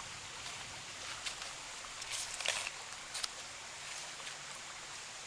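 Quiet outdoor trail ambience: a steady faint hiss with a few light clicks or scuffs a couple of seconds in.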